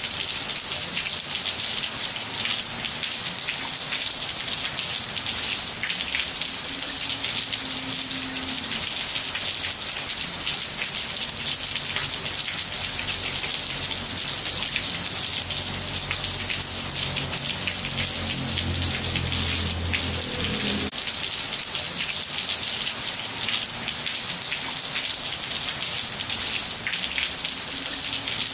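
Steady rain falling on a floor of ceramic tiles: a dense, even hiss with individual drops ticking against the hard surface.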